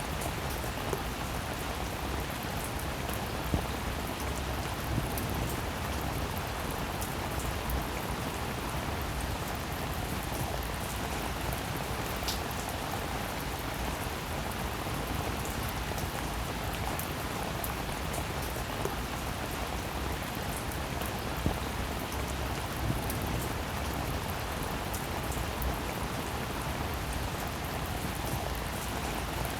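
Steady rain falling, with many individual drops ticking on a hard surface and a few louder drop hits, one about three and a half seconds in and one about twenty-one seconds in.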